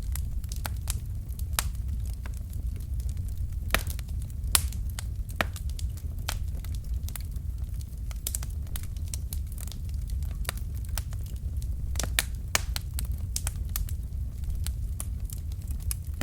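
Wood fire in a fireplace crackling: burning logs giving off irregular sharp pops and snaps, a few of them louder, over a steady low rumble.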